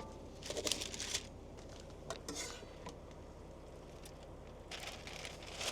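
Cookware and utensils being handled: a few short scrapes and clatters over a steady low hum.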